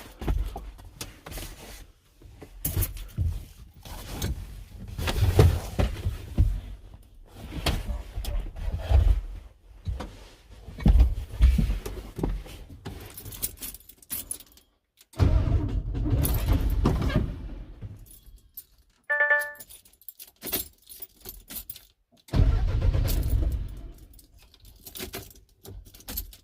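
A farm truck being cranked over in several separate attempts without starting. A short beep sounds about nineteen seconds in.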